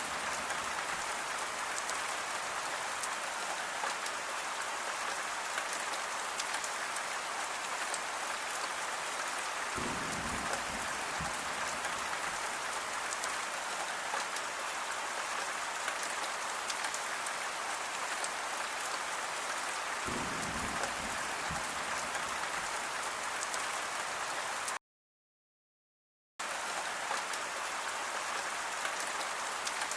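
Steady, dense rain falling on a surface, an even hiss of many drops. A low rumble comes in briefly twice, and about three-quarters of the way through the sound cuts out completely for about a second and a half, then resumes.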